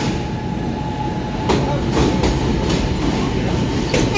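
Kawasaki R160B subway train with Siemens propulsion passing through a station without stopping. There is a steady rumble of steel wheels on rail, with repeated clacks as the wheels cross rail joints, and a steady high tone underneath.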